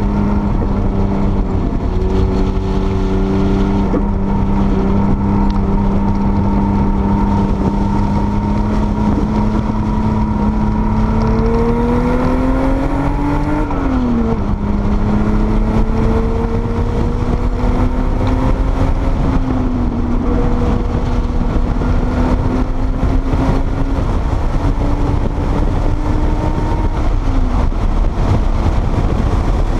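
Porsche 930 Turbo's air-cooled turbocharged flat-six, heard from inside the car at speed, with heavy wind and road noise. The engine note holds steady, climbs, then drops sharply about halfway through, and later rises slowly and dips again twice.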